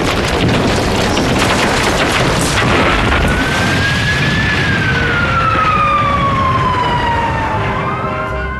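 Loud, continuous rumble of an explosion and falling wreckage, with a siren-like tone that rises for about two seconds and then slowly falls away. Brass music begins to come in near the end.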